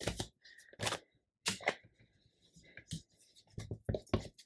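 Paper and craft pieces being handled on a worktable: a string of irregular rustles, taps and clicks, the loudest at the very start, about a second in and near the end.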